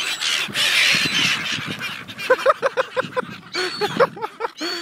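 A flock of seagulls, likely Australian silver gulls, calling with short, harsh repeated cries, several a second, through the second half. The first second or so is a loud rushing noise.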